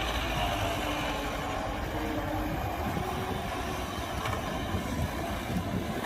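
Diesel engine of a heavy earthmoving machine running steadily, with a low rumble and a slightly wavering engine note.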